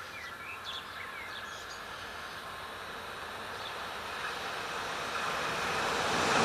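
An approaching train, its noise growing steadily louder and swelling sharply near the end as it draws close. A few short bird chirps are heard in the first couple of seconds.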